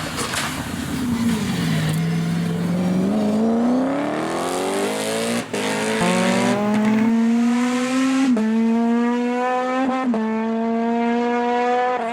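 Race car engine at full throttle: it slows briefly at first, then climbs steadily in pitch through the gears, with three quick upshifts in the second half.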